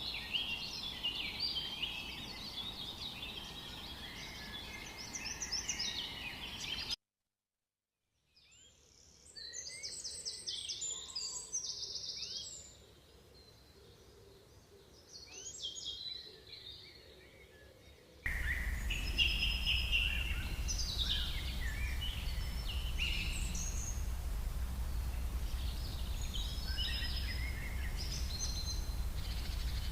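Small songbirds chirping and singing in many short, high notes over a steady low background rumble. The sound cuts out for about a second a quarter of the way in, comes back quieter with fewer birds, and a little past halfway the louder rumble and busier chirping return suddenly.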